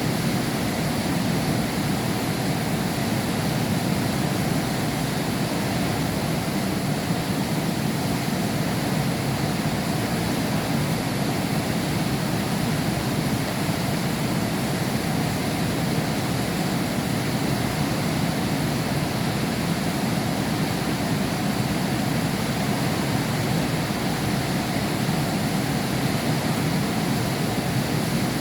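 Heavy rain falling steadily, heard through window glass, an even hiss with no let-up.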